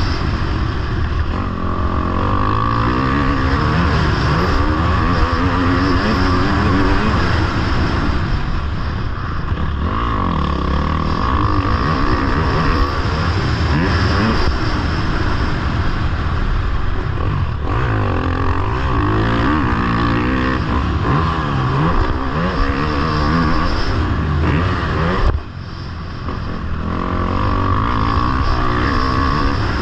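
Motocross bike engine running hard, revving up and dropping back again and again as it accelerates and shifts. About 25 seconds in it drops off sharply for a moment, then builds again.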